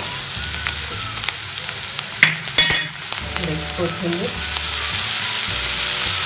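Sliced onions with cumin and mustard seeds sizzling in hot oil in a kadhai while a steel ladle stirs them, with ladle clicks against the pan: the tempering (phodni), onions being browned. A brief, much louder burst of noise comes about two and a half seconds in.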